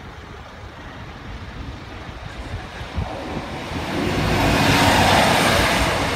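East Midlands Trains diesel multiple unit passing close by. Its noise builds from about three seconds in and is loudest about five seconds in, an engine drone under the sound of the train going by.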